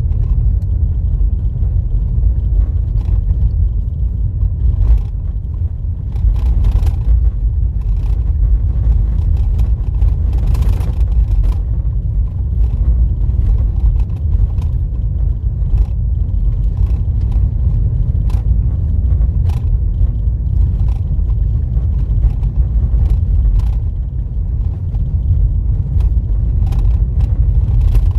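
Car driving on a rough dirt road, heard from inside the cabin: a steady low rumble of tyres and road noise, with scattered small clicks and knocks.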